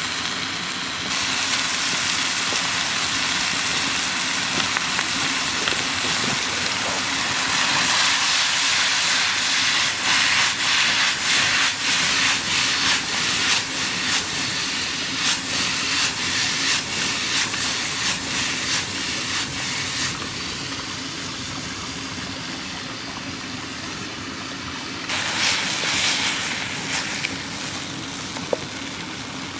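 Ground meat and chopped tomatoes sizzling and steaming in a frying pan over an open wood fire, with the fire crackling. The sizzle is loudest and full of rapid crackles through the middle stretch, while the pan is tossed over the flames, then settles to a softer steady hiss.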